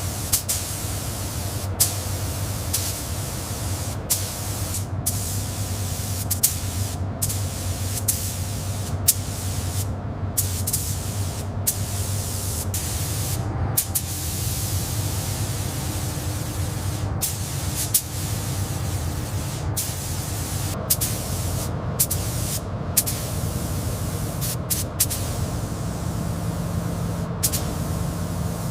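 Hissing spray of pressurised air or liquid that keeps stopping for a moment and starting again, over a steady low machine hum.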